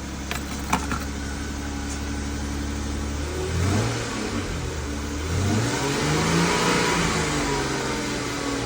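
Car engine idling steadily, then revved twice: a short blip about halfway through and a longer rev that climbs and falls back to idle near the end. A couple of sharp clicks come in the first second.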